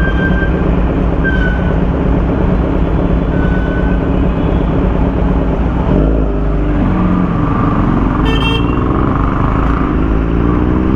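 Motorcycle engine running in road traffic, with several short horn toots in the first few seconds. About six seconds in, the engine note changes and then climbs steadily as it accelerates.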